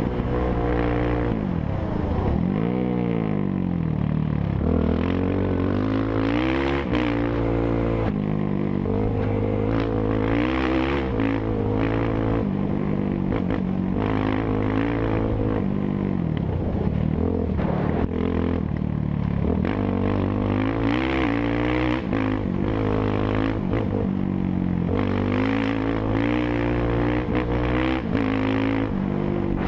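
Motorcycle engines revving hard, their pitch sweeping up and down repeatedly.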